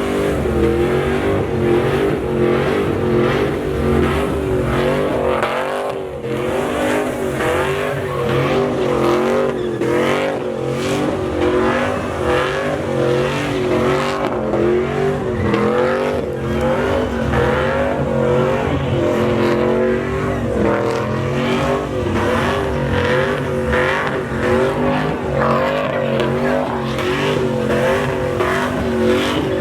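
Pickup truck engine held at high revs during a burnout, its pitch wavering rapidly up and down, over a continuous hiss of spinning tyres.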